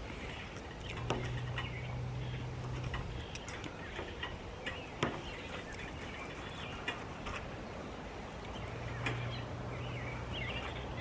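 Small birds chirping and singing throughout, with a few sharp clicks. A low steady hum comes in about a second in, fades, and returns near the end.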